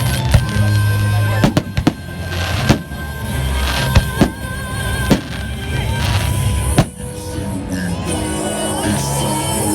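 Fireworks going off, about eight or nine sharp bangs at irregular intervals, some in quick pairs, over background pop music.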